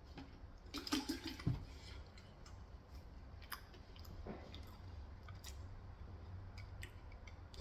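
Close-up chewing and soft wet mouth sounds of someone eating Korean fried chicken, with scattered small clicks and a busier patch about a second in, over a low steady hum.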